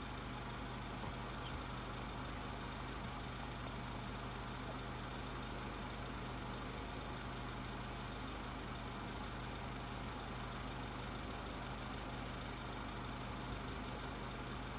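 Steady low mechanical hum with no change in level.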